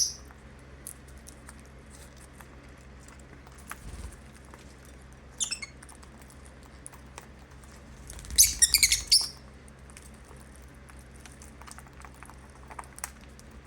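Pet lovebirds chirping in short, high, shrill bursts, with one brief falling call about midway and a loud cluster of chirps a little past the middle. Between the calls there is faint light clicking and tapping of beaks and feet on the table.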